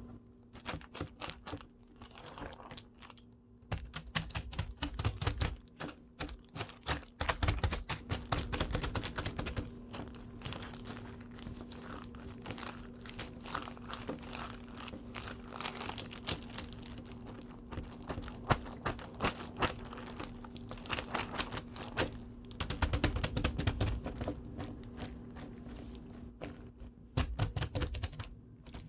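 Vinyl slime being squeezed, poked and stretched by hand: a dense run of small sticky clicks and crackles, with a few soft low thumps here and there.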